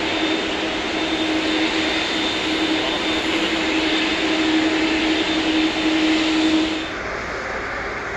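Airbus A380's four Engine Alliance GP7200 turbofans running at taxi power: steady jet noise with a strong hum and a faint high whine. Near the end the sound cuts abruptly to a quieter, steadier jet hiss.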